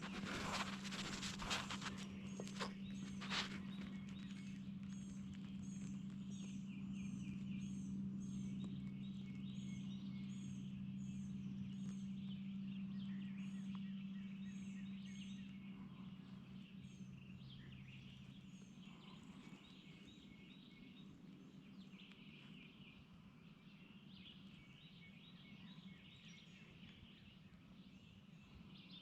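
Small songbirds singing and chirping over and over in the woods, with a steady low hum underneath that fades out about halfway through. A few sharp rustles or knocks come in the first few seconds.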